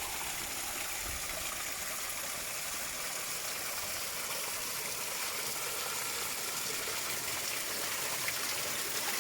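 Waterfall water pouring and splashing steadily, a continuous even rush.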